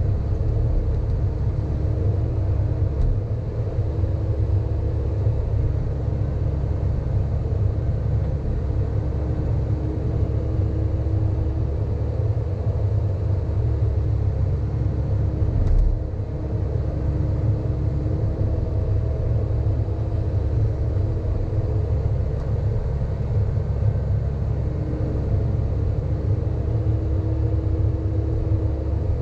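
Sany hydraulic excavator working, its diesel engine running steadily with a low rumble, a faint tone that comes and goes, and one brief knock about halfway through.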